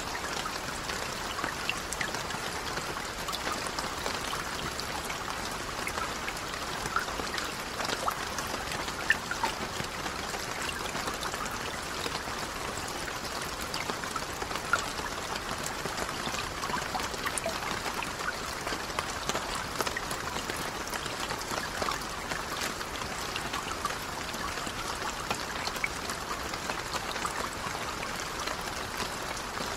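Steady rain falling on a lake: a dense, even patter of drops with a few louder single drops standing out about 9 and 15 seconds in.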